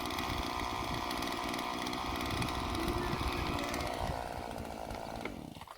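Two-stroke chainsaw running at high revs while sawing into a large, dry tree. The engine note sags slightly about four seconds in, then the sound stops suddenly just before the end.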